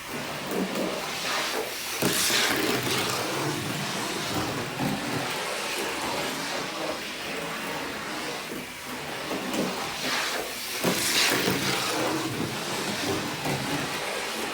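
Athearn HO scale Hustler switcher locomotive running on track, its small electric motor and rubber-belt drive making a continuous whirring rattle that swells louder about two seconds in and again near eleven seconds.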